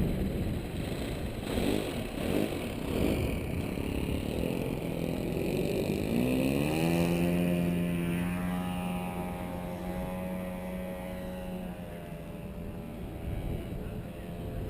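Electric motors and propellers of a HobbyKing 1875mm B-17 RC model throttling up: a whine that rises in pitch about six seconds in, holds steady, then fades near the end. Wind buffets the microphone throughout.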